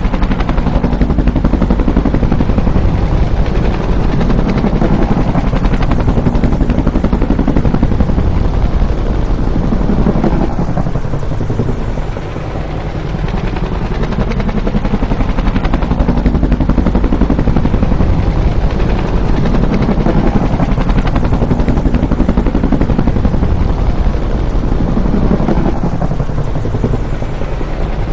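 Bell UH-1 Huey helicopter's two-bladed main rotor beating loudly and steadily, easing off briefly about halfway through and then building again.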